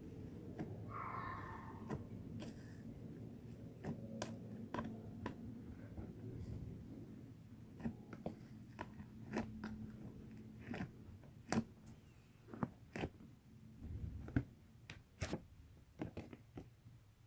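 Slime being squished and poked by hand, with irregular sharp clicking pops as air pockets burst.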